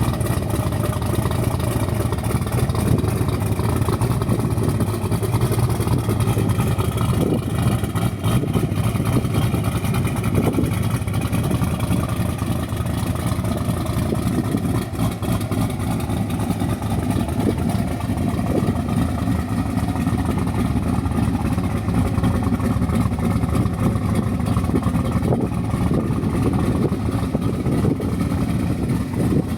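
Twin-turbo Camaro engine running steadily at idle, with no revving.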